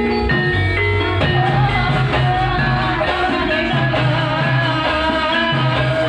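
Javanese gamelan music for an ebeg hobby-horse dance: struck pitched percussion and drums playing steadily, with a voice singing a wavering melody over them.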